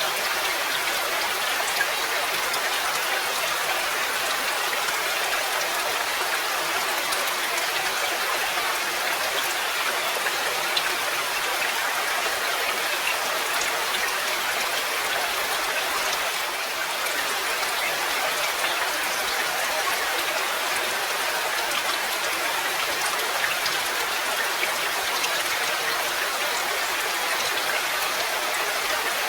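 Steady rain falling, an even hiss of rainfall dotted with many small clicks of individual drops striking a surface.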